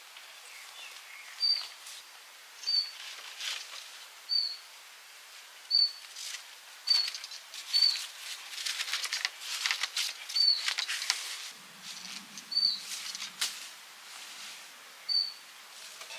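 A bird repeating a short, high chirp about ten times, one every second or two, over faint outdoor hiss. A run of sharp rustling crackles comes in the middle.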